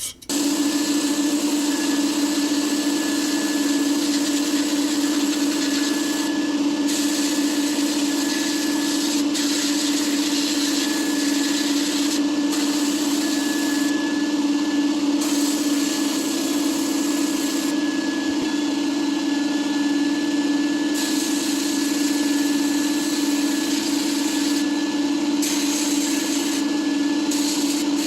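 A small power tool's motor running at a constant speed, a steady hum with a hiss over it.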